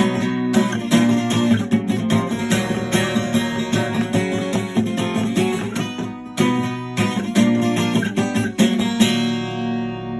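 Acoustic guitar strumming chords in the song's instrumental ending. About nine seconds in it lands on a final chord that rings on and fades.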